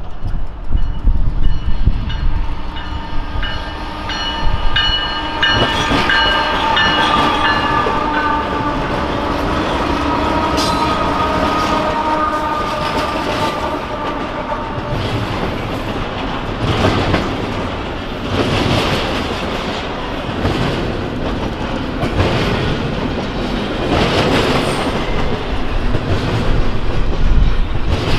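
Freight train of double-stack container well cars passing. A locomotive horn sounds one long chord through roughly the first half of the sound and fades out. After that the wheels clatter over the rail joints in repeated clicks.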